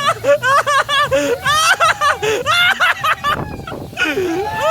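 High-pitched human voices in rapid, sharply rising and falling bursts, with laughter, with a short break about three and a half seconds in.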